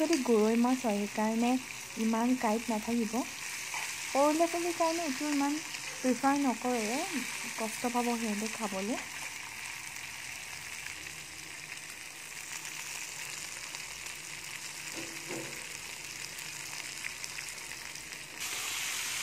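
Oil sizzling steadily in a small kadai as goroi fish fry with onions and green chillies, a steel spoon stirring and breaking the fish up; the sizzle gets louder near the end. For the first nine seconds or so, a pitched voice is heard over the frying.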